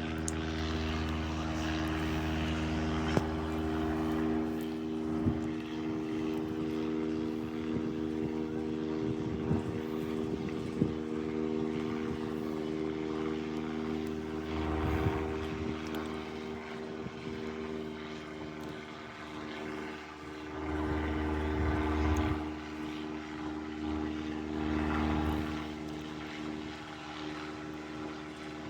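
Banner-towing propeller airplane flying slowly past, a steady droning engine hum of several tones that swells and fades a little. A few sharp clicks come in the first ten seconds or so.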